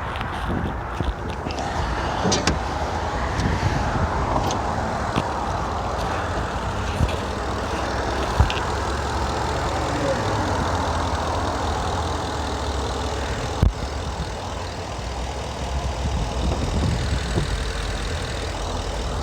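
Warmed-up Ford F-150 pickup engine idling steadily. Two sharp knocks sound over it, about eight and fourteen seconds in.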